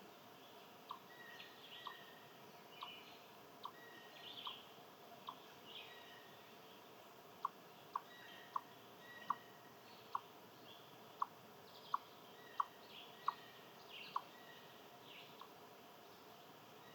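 Wild birds chirping, with short calls repeating about once a second. A series of sharp ticking chips about once a second runs through it, growing louder and quicker around the middle before stopping a few seconds from the end.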